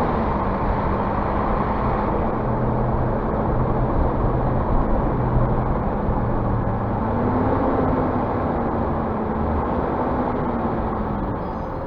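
Scania bus diesel engine running steadily, its pitch dropping at the start, rising briefly about two-thirds of the way through, then easing off again near the end.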